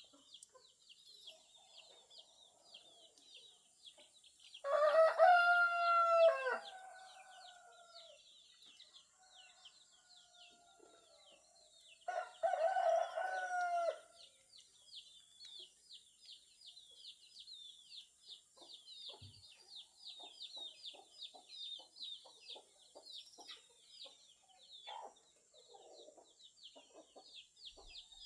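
A rooster crows twice, each crow lasting about two seconds, the first about five seconds in and the second about twelve seconds in, over steady high-pitched chirping of small birds. Soft short clucks follow in the second half.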